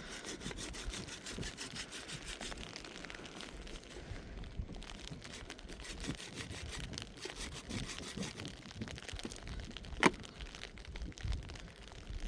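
Irregular rustling and crinkling of handled material throughout, with one sharp knock about ten seconds in.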